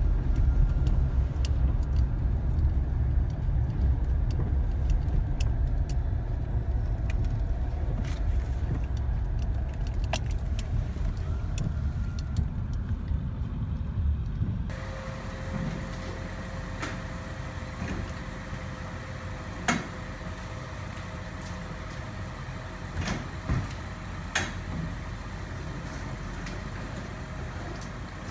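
Car driving, heard from inside the cabin as a steady low engine and road rumble. About fifteen seconds in it cuts to a quieter steady hum with a few sharp clicks and knocks.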